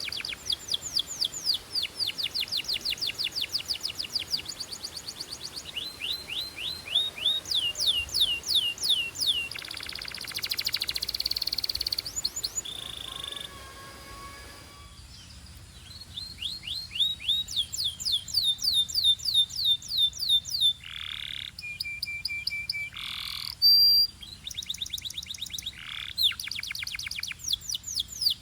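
Canary singing: fast trills of rapidly repeated sweeping notes, phrase after phrase. A harsh buzzing passage comes about ten seconds in, and a few long gliding notes come a little past twenty seconds.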